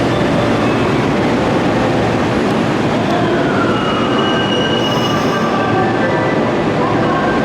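Electric commuter train moving along a station platform, with loud steady running noise from wheels and motors. About three seconds in a whine falls in pitch, and several steady high tones follow, with some wheel squeal.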